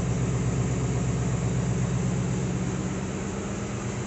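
2016 Ford Mustang V8 idling steadily after start-up, with a deep, even burble.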